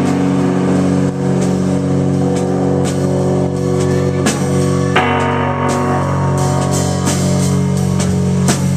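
Live band music with no vocals: drums and held guitar chords, changing to a new chord about halfway through.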